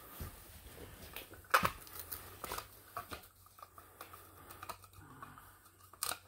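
Handling noises from removing old electrical wiring devices: a few sharp clicks and knocks with light rustling, the loudest click about one and a half seconds in and another near the end.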